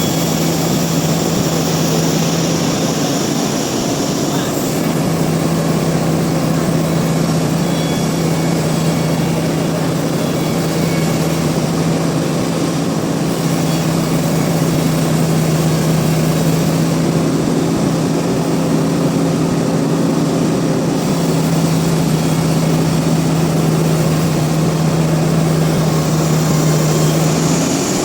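Sawmill machinery running steadily: a continuous loud drone with a constant low hum, briefly interrupted about four seconds in and dropping out just before the end.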